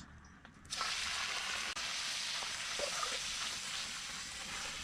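Food dropped into hot oil in a wrought-iron wok, sizzling steadily. The sizzle starts suddenly about a second in and cuts off sharply near the end.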